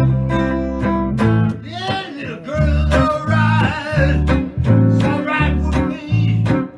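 A small blues band plays an instrumental break: acoustic guitar and electronic bass keep a steady pulsing shuffle. From about two seconds in, a blues harmonica plays a lead line with bending notes.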